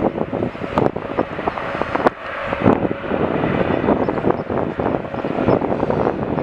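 Jet airliner engine noise mixed with gusty wind buffeting the microphone.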